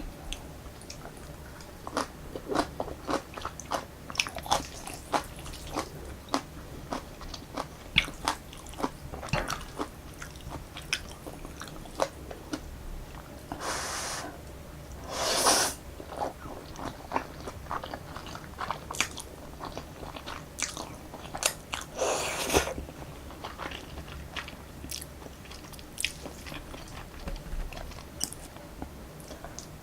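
Close-miked eating of Jjapaghetti black-bean instant noodles: wet chewing with many small mouth clicks, and three louder slurps of about a second each around the middle.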